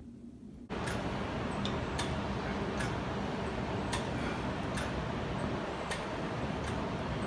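Steady background noise that starts abruptly about a second in, with a sharp tick about every three-quarters of a second.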